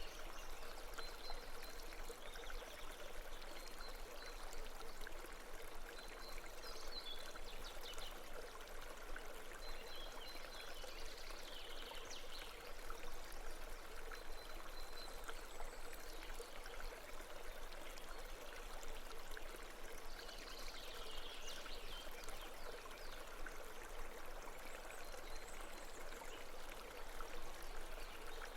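Babbling stream, a steady flow of running water. Faint high chirps come and go a few times over it.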